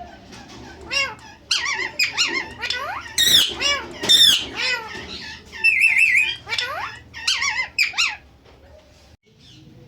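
Indian ringneck parrot squeaking and squawking in a run of short, shrill calls that slide up and down in pitch, with a wavering whistle about six seconds in; the calls die down near the end.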